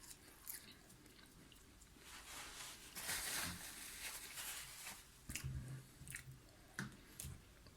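A person chewing and biting into french fries, faint, with small mouth clicks; the loudest, noisiest stretch comes about three seconds in.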